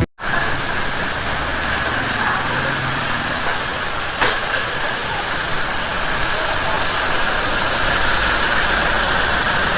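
Steady street traffic noise from motor vehicles running past, with one sharp click about four seconds in.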